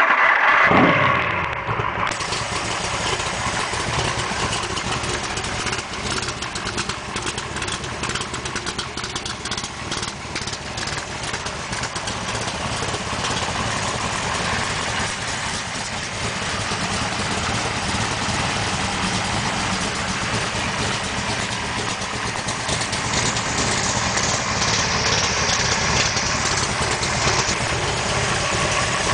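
Carbureted 427 V8 of a Cobra on its very first start: loud as it catches, then settling about a second in to steady running.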